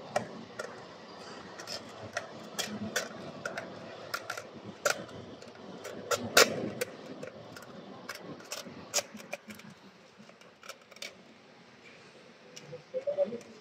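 Irregular clicks, taps and clinks of hand tools and parts being handled while refitting a car's fuel pump assembly, with the loudest knocks about five and six and a half seconds in.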